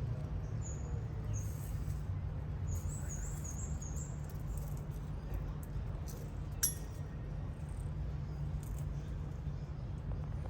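Outdoor ambience: a steady low rumble, with a run of short, high chirps in the first four seconds and a single sharp click about six and a half seconds in.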